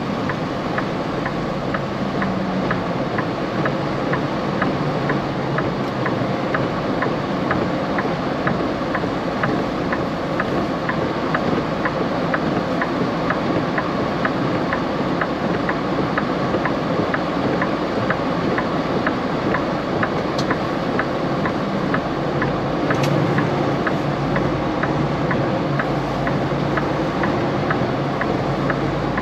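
Steady road and engine noise inside a moving semi-truck's cab, with a faint regular clicking about twice a second.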